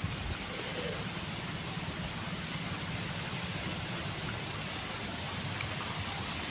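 Steady, even hiss of open-field background noise with a low rumble underneath, without any distinct calls or knocks.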